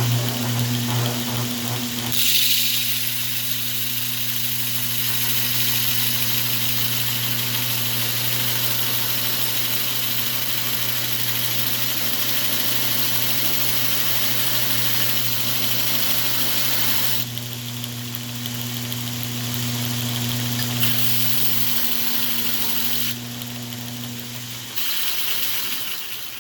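A 2x72 belt grinder switched on and running: a steady electric-motor hum under the loud hiss of the abrasive belt. The belt noise swells twice in the second half, and the motor hum cuts off shortly before the end.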